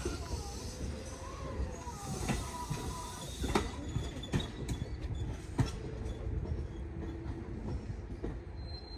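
Train running on track: a steady low rumble with several irregular wheel clacks over rail joints and a thin, faint squeal from the wheels.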